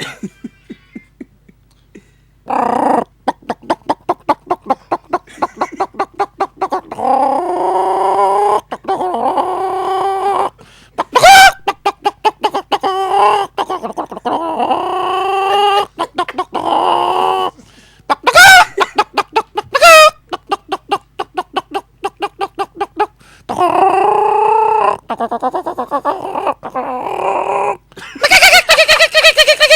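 A man imitating a rooster and hens with his mouth: long runs of rapid clucking broken by several long, drawn-out crowing calls.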